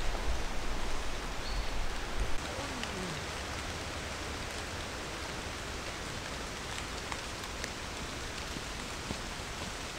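Steady rain falling, an even hiss with scattered faint drop ticks. A low rumble underneath stops about two seconds in.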